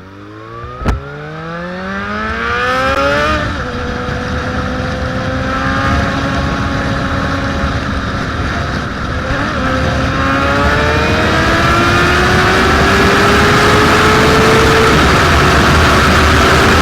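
Suzuki GSX-R1000's inline-four engine under full-throttle acceleration. The revs climb fast, drop at an upshift about three seconds in, then climb slowly and steadily through a long pull, with a brief dip near nine seconds and another drop near fifteen seconds. Rushing wind noise grows as the speed builds, and there is a sharp click about a second in.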